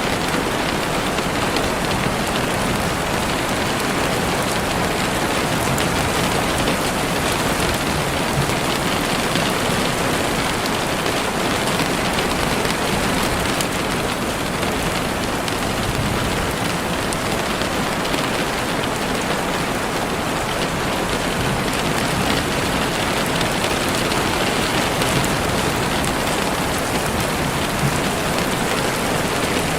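Heavy rain falling steadily on leaves and the forest floor, an even, unbroken hiss of drops.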